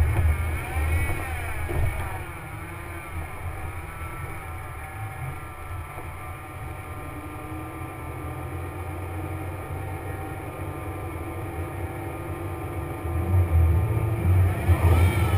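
Jeep Wrangler's engine heard from its hood, driving on an off-road trail. The engine pitch rises and falls over the first few seconds, runs steadily through the middle, and gets louder near the end as it revs harder.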